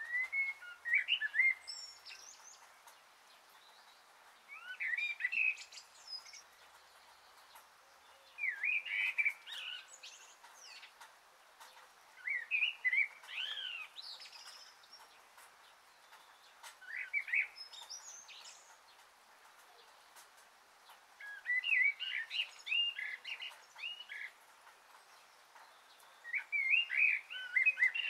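A small bird singing short, quick chirping phrases, each about a second long, repeated about every four seconds over a faint hiss.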